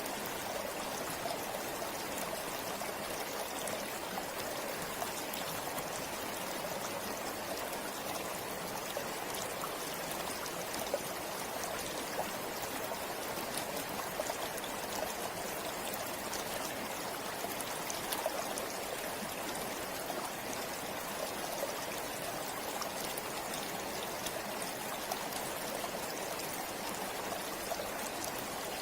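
A shallow river running steadily over stones, a constant rushing with fine splashing and trickling.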